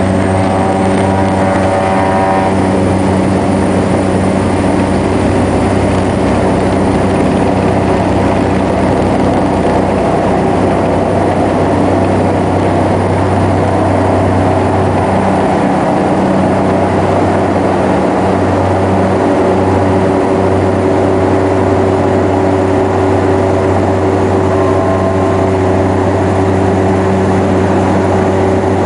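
Cessna 208B Grand Caravan's Pratt & Whitney Canada PT6A turboprop and propeller heard from inside the cabin, a loud steady drone with a strong low propeller hum.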